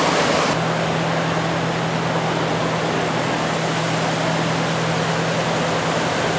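Rushing floodwater from a river swollen by a dam break, a steady loud roar of water. A steady low hum joins it about half a second in.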